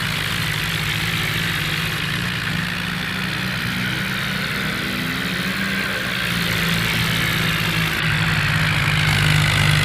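Tractor diesel engine running steadily at low revs, getting louder about six seconds in and again near eight seconds.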